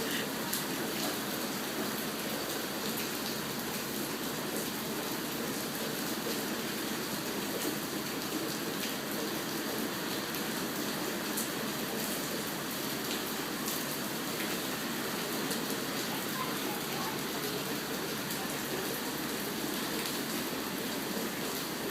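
Steady rain from a rain storm, with a few sharp drop hits scattered through it.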